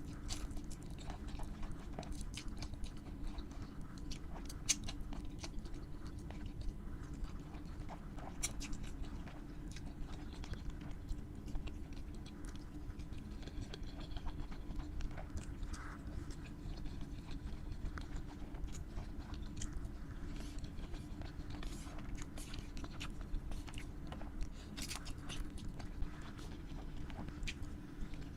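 Close-miked chewing and biting of food, with many scattered short crisp crunches and clicks throughout.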